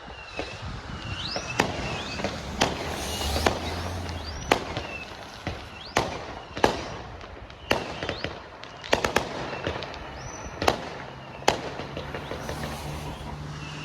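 Fireworks going off: a string of sharp bangs at irregular spacing, a second or two apart, with short rising whistles between them.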